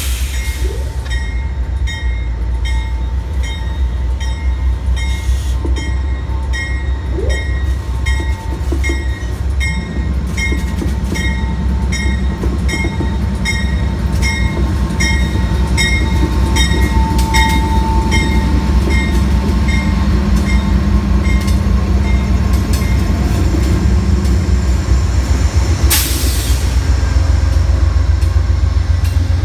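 Amtrak GE P42DC diesel locomotives pass slowly along a station platform with a deep rumble, the engine sound growing as they come by. The locomotive bell rings steadily about twice a second before fading, then the passenger cars roll past. There is one sharp burst of noise near the end.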